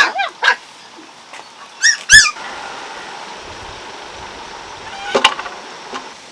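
Dog whimpering and yelping in short, high, arching cries: a few at the start and two loud ones about two seconds in, fussing and complaining. After them comes a steady hiss, with a few clicks near the end.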